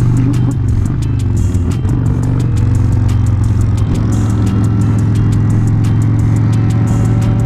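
Motorcycle engine running at a steady cruise, its pitch gliding slightly, with music with a regular beat underneath.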